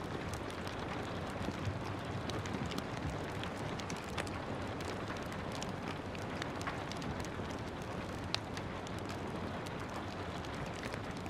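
Steady rain hiss mixed with a crackling fireplace: scattered sharp pops and snaps over the rain, with one louder pop about eight seconds in.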